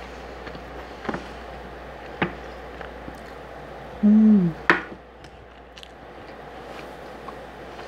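Steady hiss of heavy rain, with a few light clicks of a wooden spoon on a plate. About four seconds in, a short hum from the eater that falls in pitch, ending in a click.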